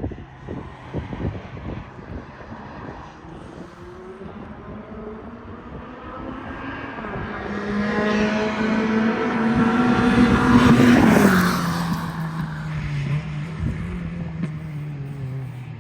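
A car passing close by on wet pavement: its engine note climbs as it approaches, is loudest about eleven seconds in with a hiss of tyre noise, then falls in pitch as it goes away. A steady engine note runs underneath.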